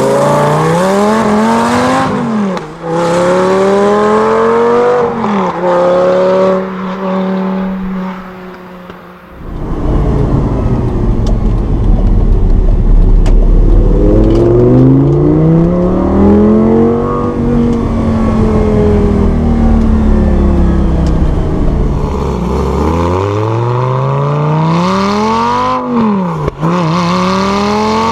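Lamborghini Gallardo Spyder's V10 engine accelerating hard, its pitch climbing and dropping sharply at gear changes. Midway it eases off, then runs under a heavy low rumble before pulling hard again near the end.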